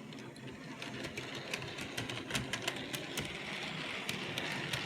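Bachmann model locomotive running along model railway track: a steady small electric motor and gear whir with irregular clicks from the wheels on the rails, growing louder as it approaches.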